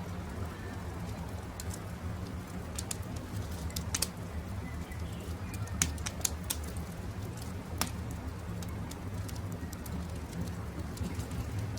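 Campfire crackling, with sharp pops scattered irregularly over a low steady rumble, and birds calling faintly.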